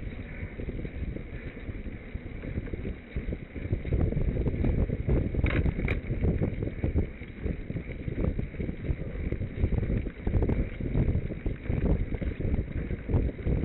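Wind buffeting the microphone during a bicycle ride: a gusty low rumble that gets louder about four seconds in.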